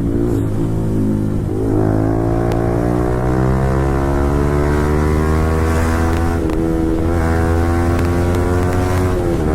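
Yamaha R15 V4's 155 cc single-cylinder engine, breathing through an Akrapovic full-system exhaust, pulling hard under acceleration. Its note climbs steadily in pitch, with short breaks about one and a half and six and a half seconds in and again near the end, where the rider shifts gear.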